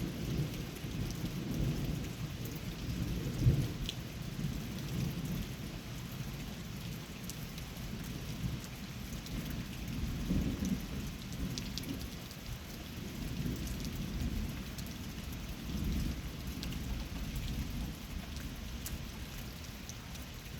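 Thunderstorm: steady rain with scattered drop ticks, under long rolling thunder that swells and fades, easing off toward the end.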